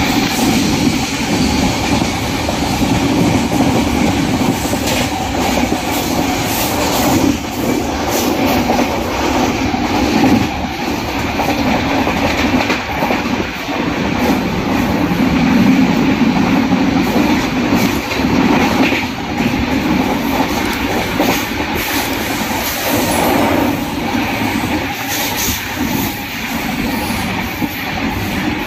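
A train running at speed, heard from on board: a steady rumble of wheels on rail, with repeated clacks as the wheels pass over rail joints.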